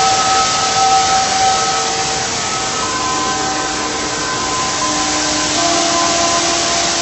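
Steady rush of falling water from a waterfall, with a few faint sustained tones changing pitch every second or two over it.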